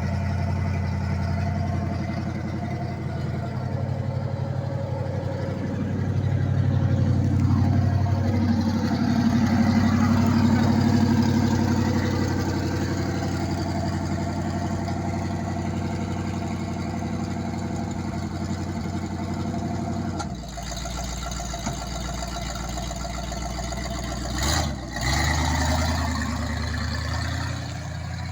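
1969 Buick LeSabre's freshly rebuilt V8 running on the road, its note swelling as it picks up speed for several seconds, then settling lower about twenty seconds in, with a brief break in the sound a few seconds before the end.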